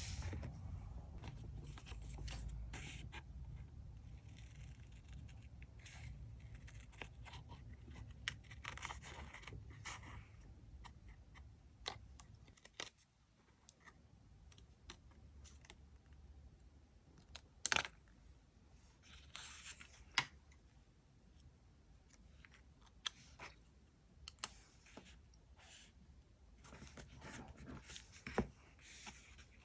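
Paper-craft handling sounds: sheets of paper and stickers rustling and being peeled or torn, with scattered sharp clicks and taps, the loudest about 18 and 20 seconds in.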